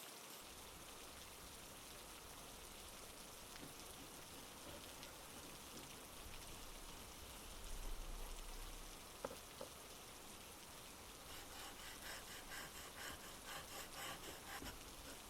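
Soft, steady rain. A cluster of light taps comes in over the last few seconds.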